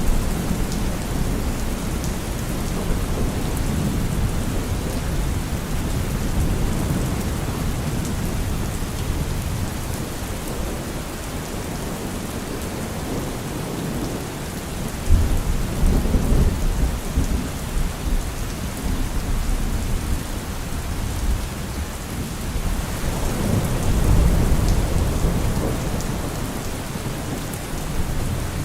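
Steady rain with rolls of thunder: an even hiss of rainfall throughout, with a low rumble of thunder swelling up about halfway through and another near the end.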